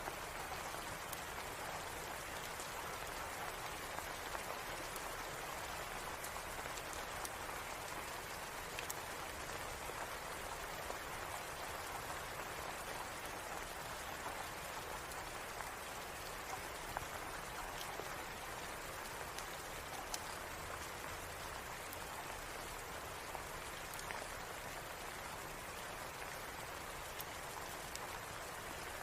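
Steady rain falling, an even hiss with scattered light clicks of drops throughout.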